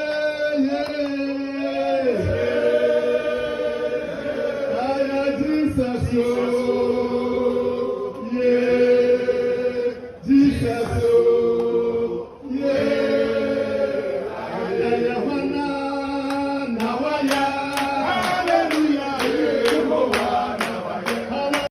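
Group of voices singing a slow worship chant in long held notes. Regular sharp strikes keep time in the last few seconds.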